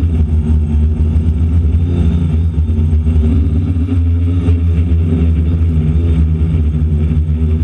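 DJI Flamewheel F450 quadcopter's motors and propellers running, heard from a GoPro on its frame: a loud, steady low rumble with several steady hum tones above it, the microphone buffeted by strong wind.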